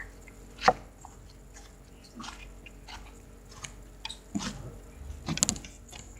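Slime being stretched and squeezed by hand, giving irregular small clicks, pops and squelches, with one sharp pop just under a second in and louder clusters of squelching about four and a half and five and a half seconds in.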